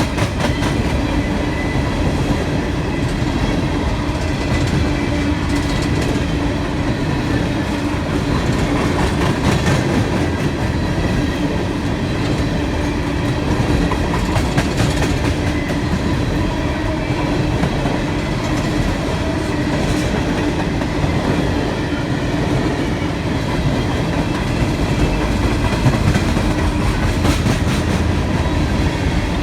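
Loaded coal train's hopper cars rolling past: a steady rumble of steel wheels on rail, with clickety-clack as the wheels cross rail joints.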